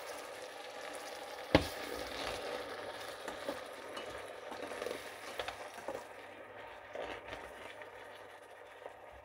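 Blended onion sauce sizzling in hot ghee in a stainless steel pan while a metal slotted spatula stirs it, clinking against the pan, sharply once about a second and a half in. The sizzle gradually dies down.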